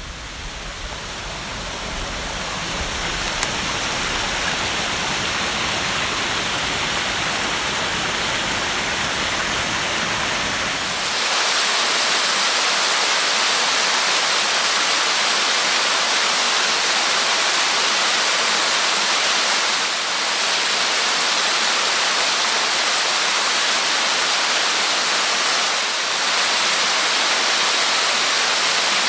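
Steady rushing water of a small waterfall and its stream, swelling in over the first few seconds. About eleven seconds in, the low rumble drops away abruptly and the rush turns brighter and hissier.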